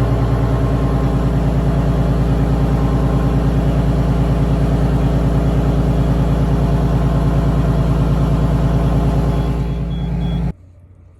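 Bus engine turning over on a cold start, with an even, rapid pulsing beat. It stops abruptly about ten and a half seconds in.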